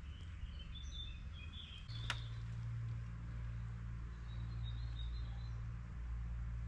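Small birds chirping, a few quick high calls in the first two seconds and again midway, over a steady low rumble; a single sharp click about two seconds in.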